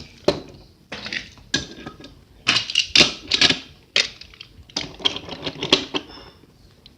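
Small plastic toy engines clattering and clicking as they are handled and knocked together, in irregular bunches of sharp clicks that die away near the end.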